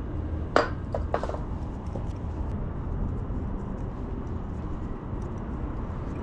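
Metal hand tools clicking and knocking a few times during a thread-insert install, then a steady low background hum.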